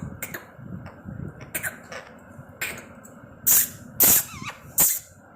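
Parrot making short, harsh hissing sounds, three loud ones in the last two seconds and fainter ones before.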